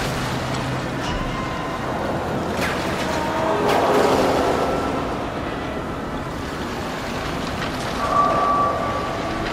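Sound-effect mix of a sinking ocean liner: a steady rush of water with long groans and creaks of straining metal, swelling about four seconds in, and a higher drawn-out metal tone near the end.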